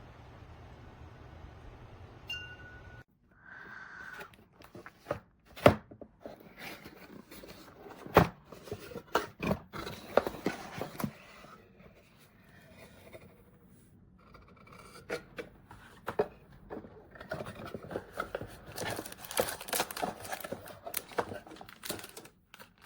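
Handling noise: a short tone about two seconds in, then scattered sharp clicks and knocks, and a stretch of rustling and crinkling in the later part.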